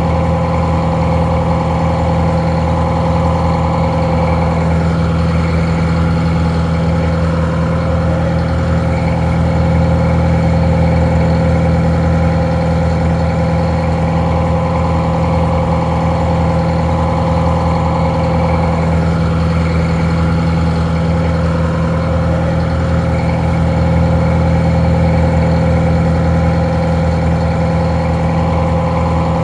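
Detroit Diesel 4-71 two-stroke diesel engine idling steadily, sounding a little muffled.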